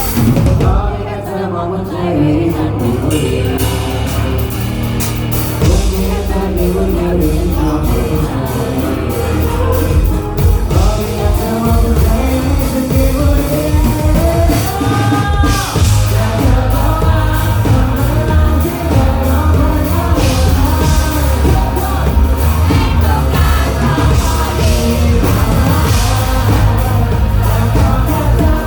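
Live rock band playing: drum kit, bass and guitars, with singing, the full beat coming in about six seconds in.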